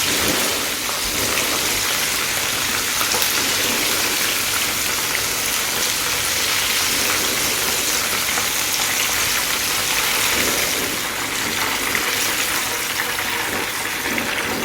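Chicken wings deep-frying in a pot of hot oil, a steady sizzle.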